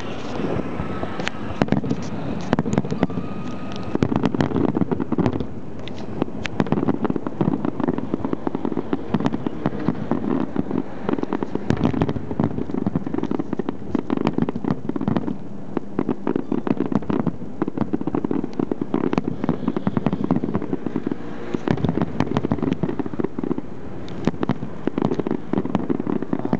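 Fireworks going off in a dense, continuous barrage: rapid irregular cracks and pops over a steady rumble of bursts.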